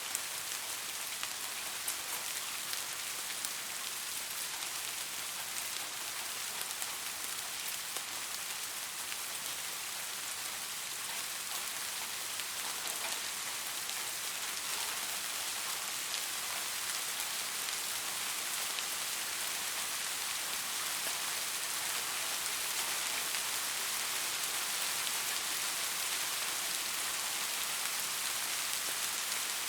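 Steady rain falling, a dense, even hiss of drops with fine ticks of individual raindrops hitting a surface.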